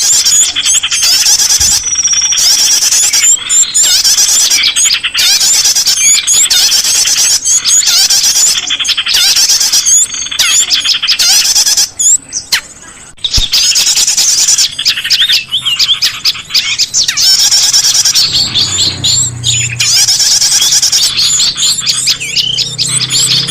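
Dense, high-pitched chirping and trilling of several small birds, played as a bird-lure recording. A low steady tone joins in near the end.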